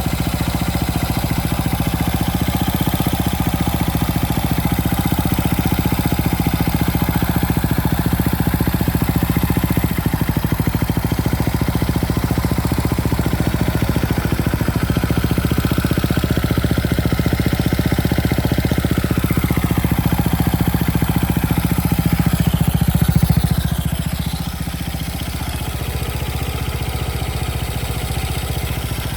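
Honda XL230's air-cooled single-cylinder four-stroke engine idling steadily. About three-quarters of the way through it briefly picks up a little, then settles back slightly quieter.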